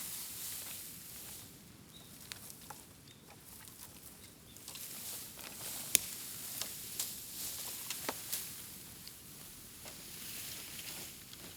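Bamboo burning in a bonfire: a steady hiss with scattered crackles and sharp pops, the loudest about six seconds in.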